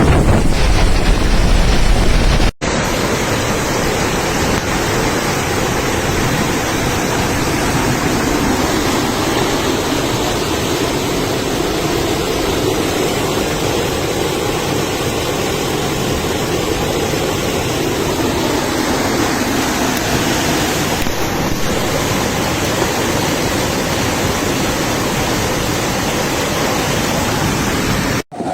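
Loud, steady rush of rainwater, with no distinct strokes or tones. A hard cut about two and a half seconds in changes the sound: before it a deep rumble lies under the rush, after it the rush is even.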